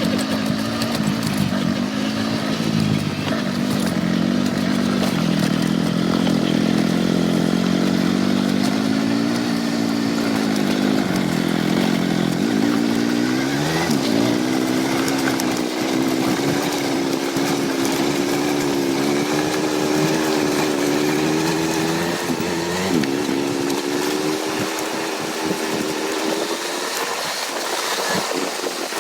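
Motorcycle engine running while riding, its pitch rising and falling with the throttle, with a quick climb in pitch about halfway through.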